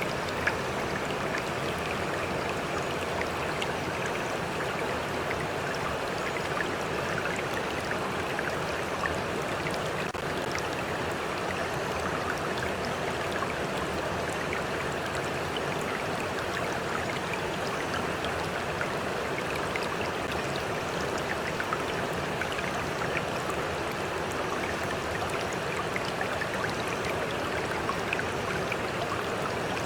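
Stream water flowing and lapping steadily, with small splashes ticking through it.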